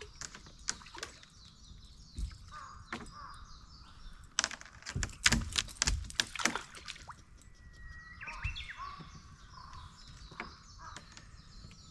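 Birds singing: a held whistled note, then a run of chirps about eight seconds in. Scattered clicks and knocks run throughout, with a cluster of louder thumps around the middle.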